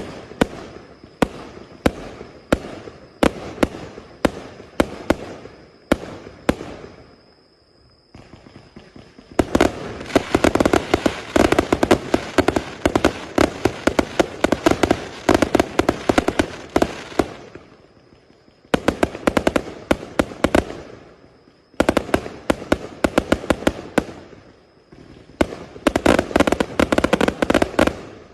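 A 1000-shot 0.8-inch firework cake firing in fan-pattern volleys. It starts with a run of separate shots, about two or three a second. After a short lull come long stretches of rapid-fire shots, broken by brief pauses between volleys.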